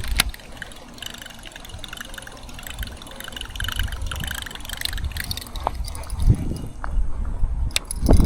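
Water splashing and gurgling, with a sharp click about a split second in and low wind rumble on the microphone.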